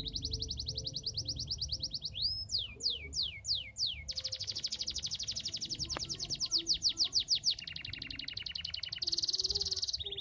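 Domestic canary singing nonstop: a chain of rapid trills, each a fast run of one repeated note, broken by about five steep falling whistles and, later, a lower trill and a buzzy stretch.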